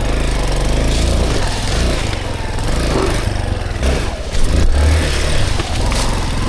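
Dirt bike engine running and revving up and down under changing throttle as it is ridden over rough trail, with a few clunks, the loudest about four and a half seconds in.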